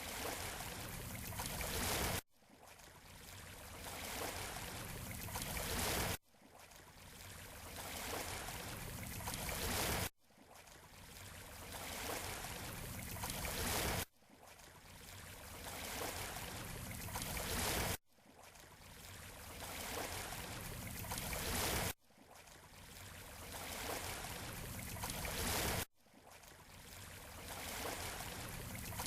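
Ocean surf noise on a short repeating loop of about four seconds. Each pass swells gradually, then cuts off abruptly and starts over.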